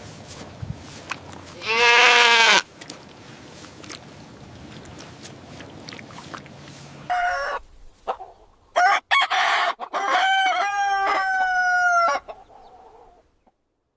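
A rooster crowing once in the second half, ending in a long held note of about two seconds. Earlier, about two seconds in, a single loud, wavering animal call.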